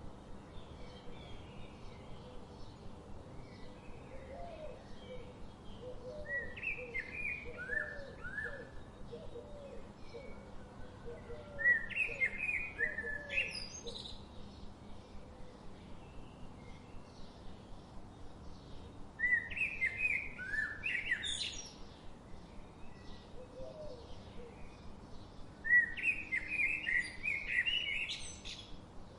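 A songbird sings the same short song four times, about six seconds apart. Each phrase runs two to three seconds, a run of notes stepping downward and ending in a higher flourish. In the first half a softer, lower series of repeated notes also sounds.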